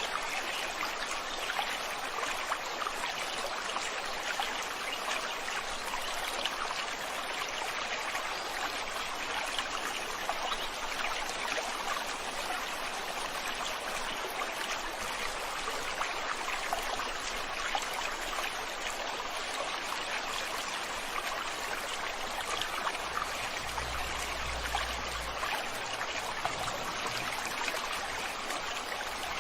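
A river stream flowing steadily, a continuous rush of water over rocks with small splashes and trickles. A brief low rumble comes in about three quarters of the way through.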